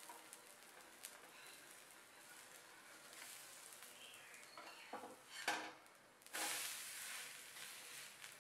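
Adai batter frying on a hot dosa tawa with a low sizzle, while a metal spatula clicks and scrapes against the pan. A little past halfway the adai is flipped, and a louder sizzle starts suddenly and slowly dies down.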